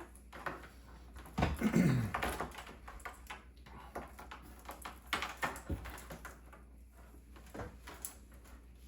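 Clicks, taps and rustling of cables and parts being handled inside a PC case during cable routing, loudest about a second and a half in.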